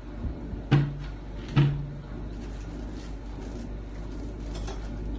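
Two loud knocks or thuds, under a second apart about a second in, each with a brief low ringing, over a steady low hum.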